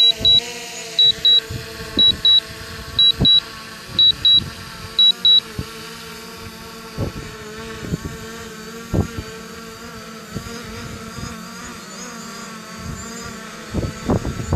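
Electronic double beeps, a high pair about once a second, stopping about five seconds in, over the steady hum of a quadcopter drone's propellers with several slightly wavering tones, and a few knocks. A louder, rougher noise starts near the end.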